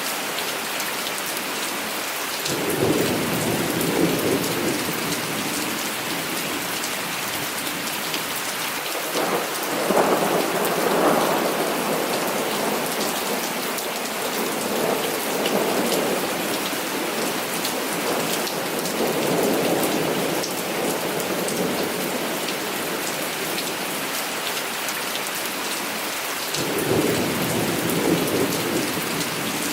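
Heavy rain falling steadily, with thunder rumbling in about five rolling swells of a few seconds each, the loudest about ten seconds in.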